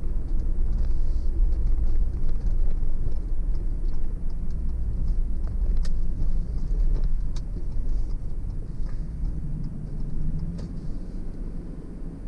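A car driving: steady low rumble of engine and tyres on the road, easing off slightly near the end, with a couple of sharp clicks around the middle.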